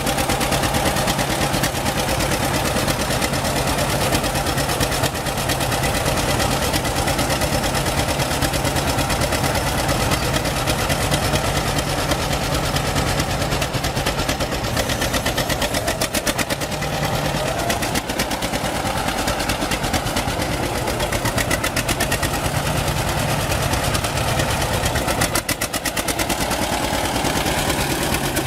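John Deere G tractor's two-cylinder engine idling steadily with an even, rapid beat.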